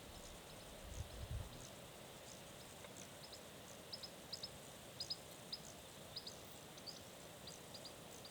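A small bird giving short, high chirps, often in quick pairs, repeating irregularly from about three seconds in, over a steady background hiss. A couple of low thumps come about a second in.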